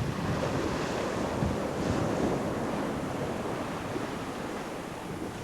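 Sea water rushing past a sailing yacht's hull as it sails fast on open ocean, with wind buffeting the microphone. A steady wash of noise with no distinct events.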